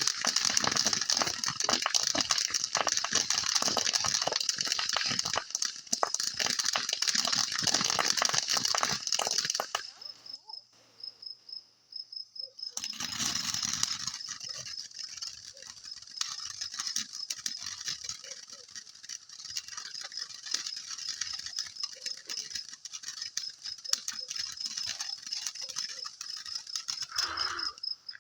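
Fireworks crackling: a dense, rapid crackle for about ten seconds, a short lull, then lighter scattered crackling, with a fresh burst near the end. Crickets chirp steadily in a high, even pulse underneath.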